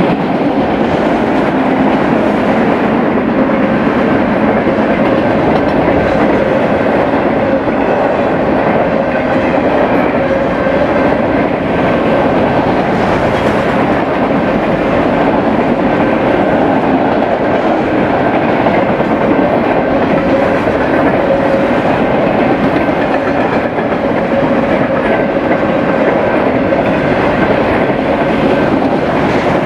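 BNSF freight train cars rolling past at speed: a loud, steady clatter of steel wheels on rail, with a faint steady whine running through it.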